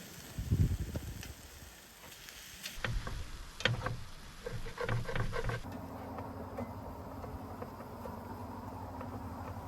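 Knocks and clinks of a cooking utensil against a pan, with a heavier thump about half a second in and a quick run of clicks a few seconds later. From about six seconds in, a steady low hum.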